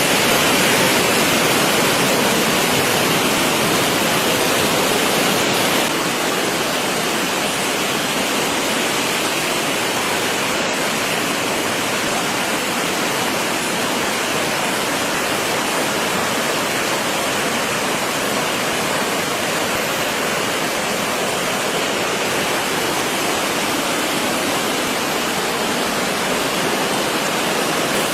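Steady rushing of storm water, an even unbroken noise that drops a little in level about six seconds in.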